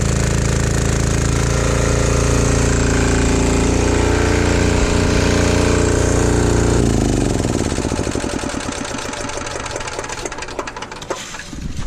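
Single-cylinder 196cc 168F diesel engine generator running steadily under test on vegetable oil, then shutting down about seven seconds in, its firing strokes slowing as it coasts to a stop.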